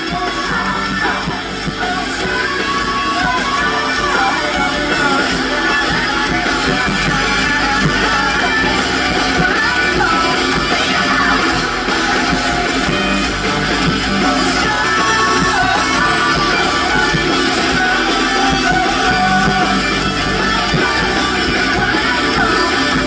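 Live rock-style band music with electric guitar and singing, loud and continuous, recorded from the audience.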